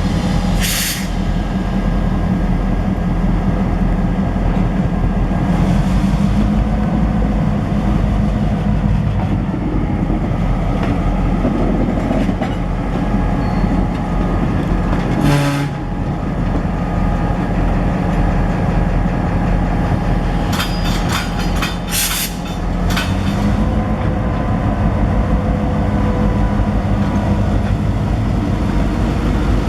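Diesel locomotive engine running steadily as the train moves on the rails, with occasional sharp metallic clanks and clicks, several close together about two-thirds of the way through. The engine note steps up slightly after them.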